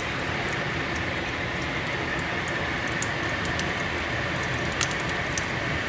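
Sandwich frying in a cast iron skillet, with steady sizzling and scattered small pops, over the steady rush of the kitchen exhaust fan.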